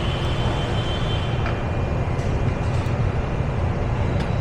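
Steady low rumble with a continuous hiss, unchanging throughout.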